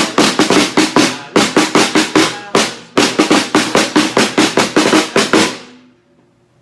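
Snare drum (tarola) struck in a fast, steady beat of about four to five hits a second, which stops suddenly near the end: the drum falling silent is the cue to freeze.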